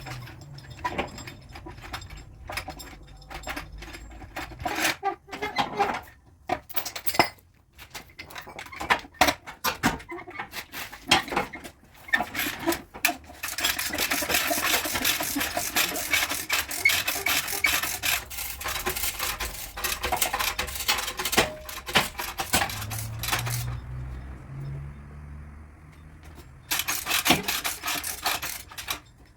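Metal bodywork tools tapping, clinking and knocking on a car's sheet-metal panel in irregular runs. In the middle, about ten seconds of dense, rapid scraping and rubbing on the metal.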